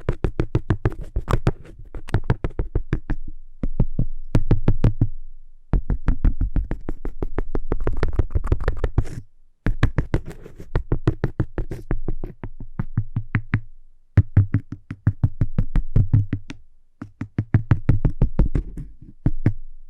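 Fast fingertip and nail tapping on cork, in quick runs of about eight to ten dull taps a second, broken by short pauses every few seconds.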